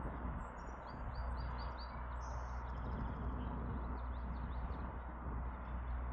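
Small songbirds chirping in quick runs of short, high notes over a steady low hum and background noise.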